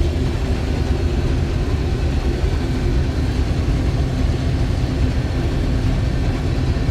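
Case IH 1660 combine's diesel engine running steadily: a loud, even, deep drone.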